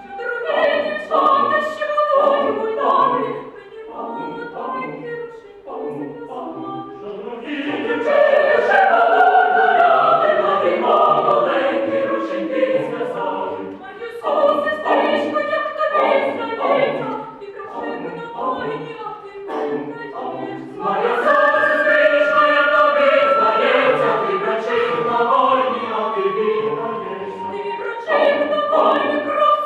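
Mixed choir singing a Ukrainian folk-song arrangement: short rhythmic chords, with two fuller, louder sustained passages, one about 7 seconds in and one about 21 seconds in.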